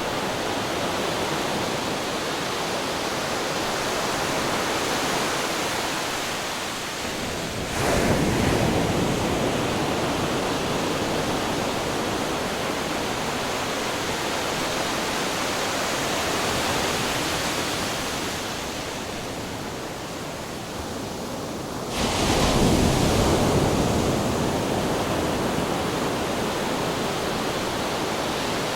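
Ocean waves crashing against rocks over a constant rush of surf, two big waves breaking about eight seconds in and again near twenty-two seconds, each swelling suddenly and then washing back.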